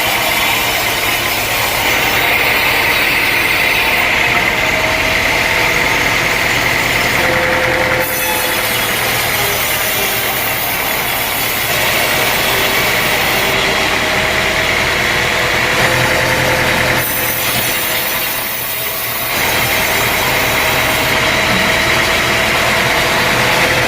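Sawmill engine running and its saw cutting through a log, in several spliced shots whose sound changes abruptly every few seconds.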